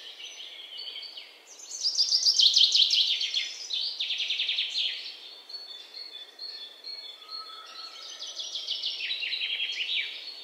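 Birds singing: bursts of rapid high chirping trills that sweep downward, the loudest about two seconds in, with further bursts near the middle and toward the end.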